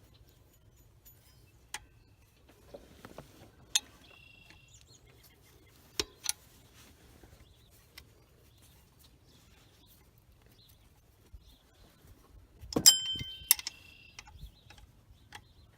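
Steel wrenches clinking against each other and the alternator mounting bolt as the stuck bolt is worked loose: scattered sharp metallic clicks, some with a brief ring, and a louder cluster of clanks near the end.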